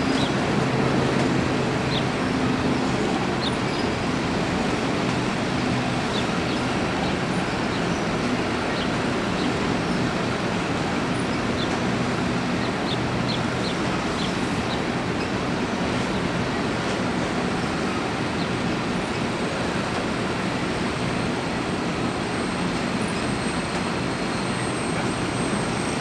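Empty coal hopper cars of a freight train rolling past, a steady rumble of steel wheels on rail, with a few brief high squeaks.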